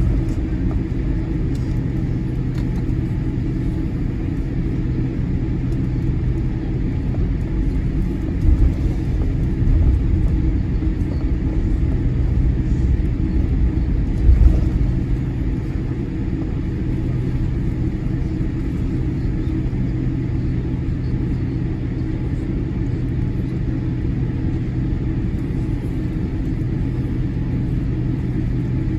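Boeing 787-8 cabin noise while taxiing: a steady low rumble of the engines at idle and the rolling airframe, with a low hum. Two brief louder low thumps come about 8 and 14 seconds in.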